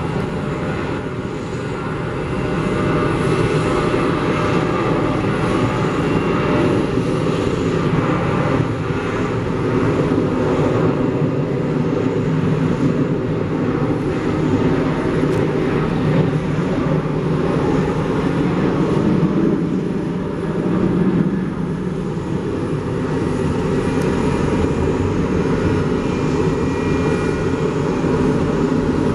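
Jet airliner engines running with a steady, loud rumble.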